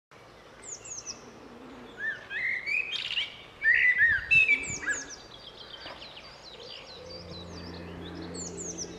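Several wild birds singing and calling: a steady run of short, high chirps throughout, with louder, lower calls a couple of seconds in. A faint low steady tone comes in near the end.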